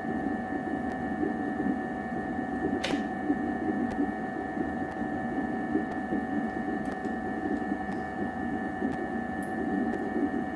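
Steady machine hum with a constant whine over a rough, rumbling noise, and one sharp click about three seconds in.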